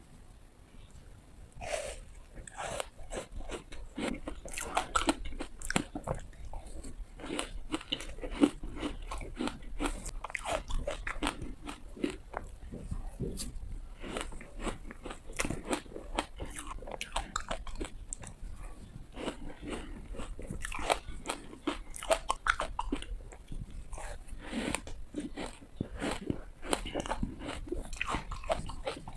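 Ice being bitten and crunched close to the microphone: a dense, irregular run of sharp cracks and crunches, starting about a second and a half in.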